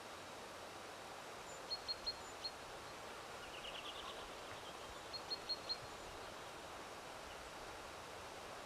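A small songbird calling over a steady outdoor hiss: two quick series of four short, high chirps, about three seconds apart, with a brief fast trill between them.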